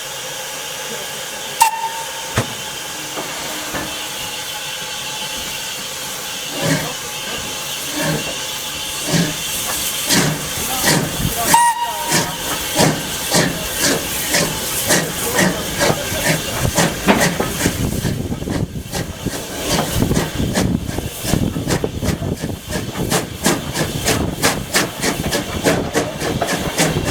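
Steam locomotive hissing, then starting off: its exhaust beats begin slowly and come faster and faster as it gathers speed. Two short high tones sound near the start and about halfway through.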